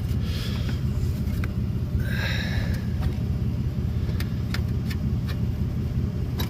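Ford 5.4 L V8 idling steadily, with two brief higher-pitched sounds, one early and one about two seconds in, and a few light clicks.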